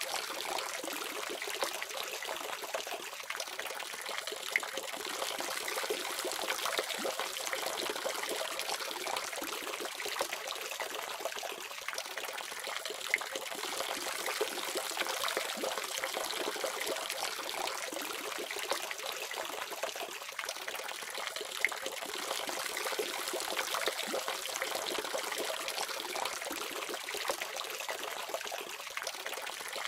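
Water running steadily from a tap, a continuous trickling splash with small scattered drips and ticks.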